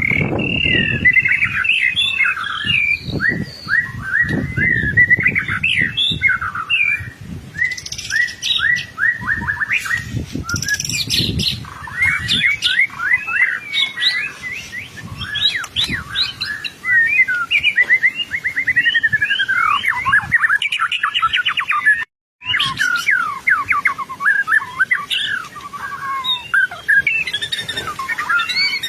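White-rumped shama singing nonstop, a fast, varied stream of loud sweeping whistles, trills and chattering phrases. The song cuts out completely for a fraction of a second about 22 seconds in, then carries on.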